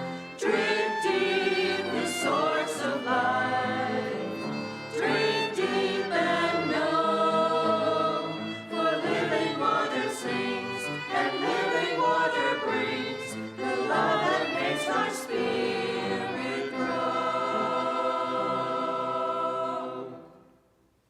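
Church choir singing an anthem in harmony, closing on a long held chord that fades away near the end.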